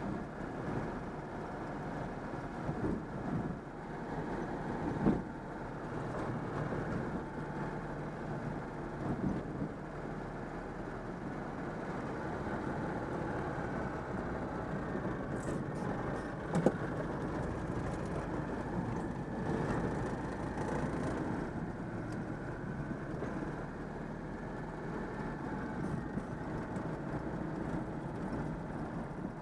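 Citroën 2CV's air-cooled flat-twin engine running steadily on the road, freshly overhauled. Two sharp knocks stand out, about five seconds in and about seventeen seconds in.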